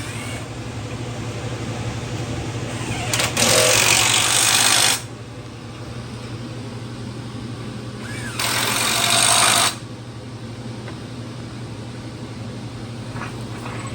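A power tool runs in two bursts of one to two seconds each, about three and eight and a half seconds in, driving the bolts that hold a small-block Chevy to an engine stand. A steady low hum runs underneath.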